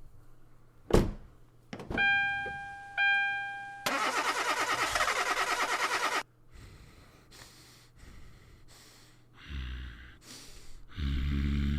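A car's chime sounds twice, then the starter cranks with an even pulsing for about two seconds and the engine does not catch. Further low, short cranking sounds come near the end.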